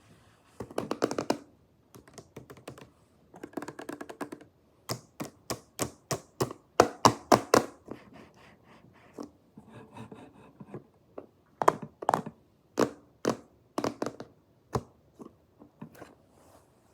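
Slime being pressed and squished by hand, giving sharp clicks and pops: quick crackling clusters at first, then single louder pops about twice a second.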